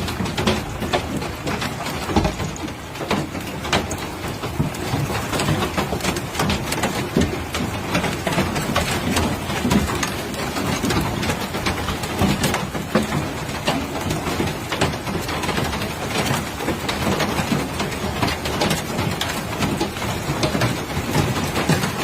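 Hailstorm: hailstones pelting down in a dense, irregular patter of hard impacts over a steady rush of heavy rain.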